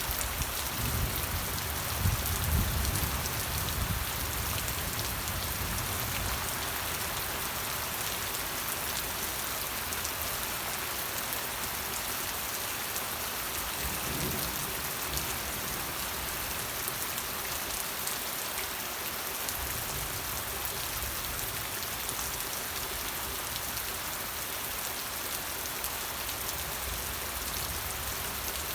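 Steady, even rain falling on a surface, with a low rumble swelling briefly about two seconds in and fainter ones later.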